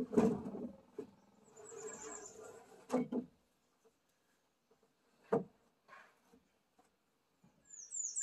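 A few scattered knocks and scuffs from work on wooden deck boards, the loudest right at the start, with a short noisy scrape a couple of seconds in. Near the end come a few brief high chirps.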